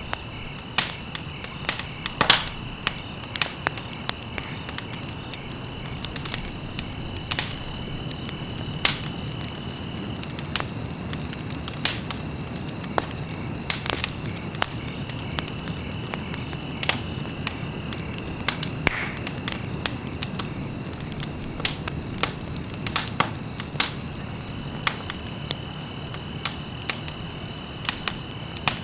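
Wood fire in a fireplace crackling, with irregular sharp pops and snaps over a low steady rush of flame. A faint steady high tone runs underneath.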